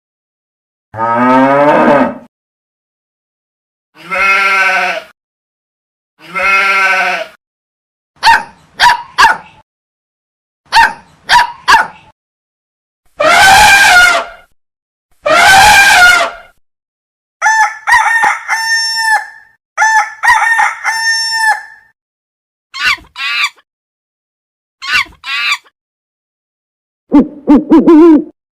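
A string of different recorded animal calls, each about one to two seconds long with silence between. It begins with the end of a cow's moo, goes on to bleating and farmyard fowl calls in short repeated bursts, and ends with low hooting calls.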